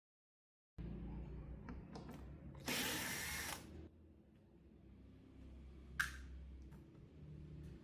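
A small power tool running in a short burst of about a second, a few seconds in, with a sharp brief burst near the end and light handling clicks between. The first moment is dead silent from an edit.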